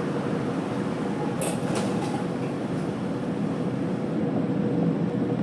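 AnsaldoBreda A650 subway train running in the tunnel as it pulls away from the station, a steady rumble with a faint steady tone, heard from inside the lead car. A few brief high-pitched clicks come about a second and a half in.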